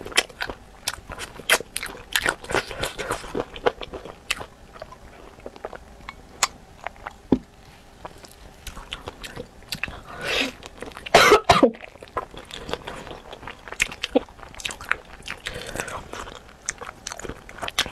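Close-up biting and chewing of spicy chicken feet: crunching with many short sharp clicks and wet mouth sounds. About eleven seconds in comes a louder cough.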